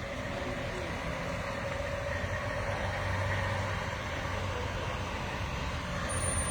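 Heavy truck engine running, with a low drone that gets louder from about three seconds in. A thin high whistle starts near the end.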